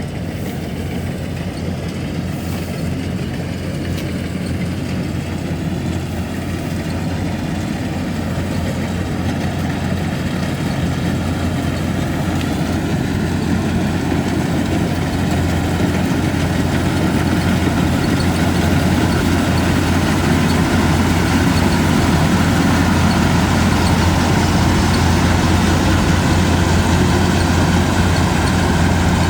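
Rice combine harvester's diesel engine and machinery running steadily with a deep hum, growing gradually louder over the stretch.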